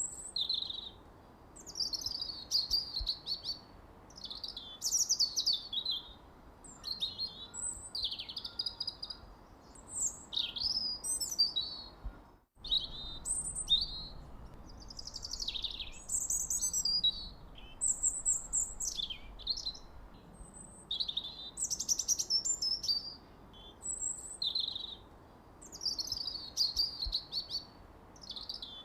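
Birds chirping continuously: many short, high chirps and quick falling sweeps overlapping one another over a faint steady hiss. The sound cuts out completely for a moment near the middle.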